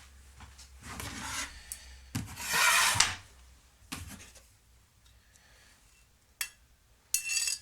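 A threaded rod being slid and test-fitted through metal parts: a few scraping rubs, the loudest lasting about a second a little over two seconds in, then single knocks and a short metallic rattle near the end.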